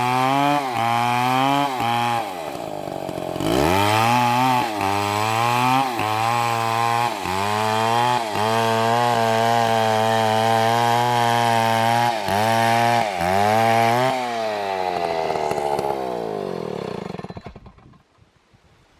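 Large chainsaw (an MS720) running at high revs while cutting, its pitch dipping briefly every second or so. About two seconds in it drops low and revs back up. From about fourteen seconds in the engine winds down and stops.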